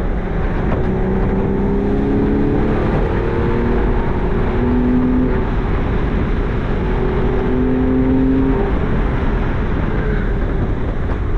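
Porsche 996 Carrera 4S 3.6-litre flat-six with factory sport exhaust pulling the car under way, heard from the cabin over road and wind rumble. Its note climbs slowly in pitch in stretches, with short breaks between them.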